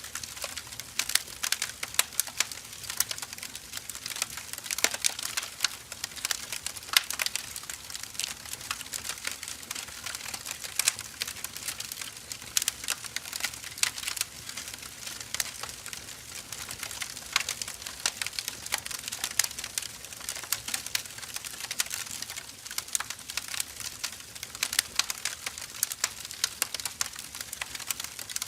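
Firewood burning: a steady crackling hiss with many sharp irregular pops and snaps from the wood.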